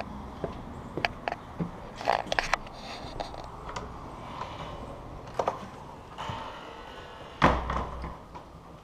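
Scattered light knocks and clicks, with one louder thump about seven and a half seconds in.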